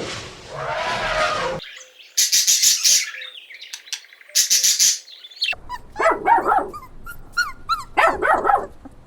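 A string of animal sounds: a rough noisy sound that fades out in the first second and a half, then two short hissing bursts. In the second half a dog barks in short, high yaps, in two bursts.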